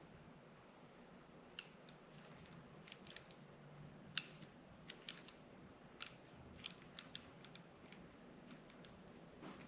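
Faint, irregular clicks and snips of small hand tools working on thin wire and terminal pins.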